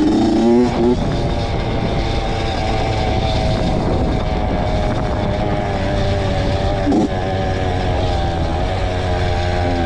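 Honda CR two-stroke dirt bike engine running steadily at speed, with a brief change in pitch near the start and again about seven seconds in.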